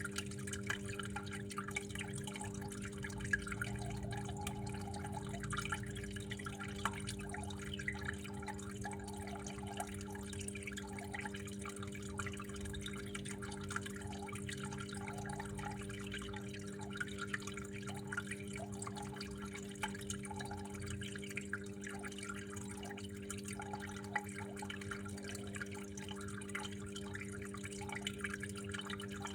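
Water trickling and dripping continuously in small irregular splashes, over a steady low hum.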